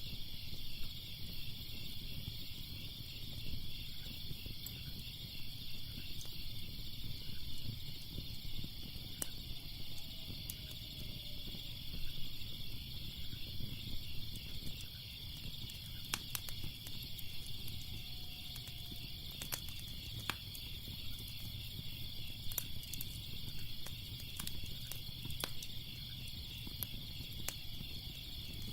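Steady chorus of crickets chirping, over a low rumble, with scattered sharp crackles of a wood fire, more frequent in the second half.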